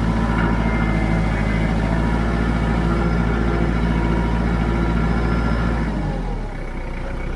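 Kubota L3940 tractor's diesel engine running steadily, then its revs and level dropping about six seconds in.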